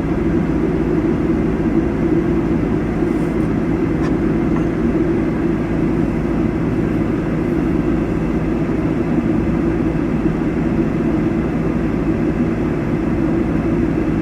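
A vehicle engine running steadily: a constant low rumble that does not change.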